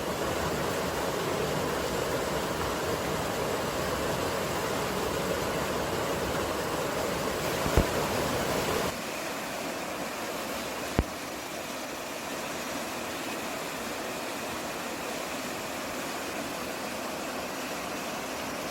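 Steady rushing outdoor noise recorded in the mountains, the kind of sound wind and running water make. About halfway through, the low rumble drops out and it turns slightly quieter and thinner. Two sharp clicks are heard, one just before and one just after that change.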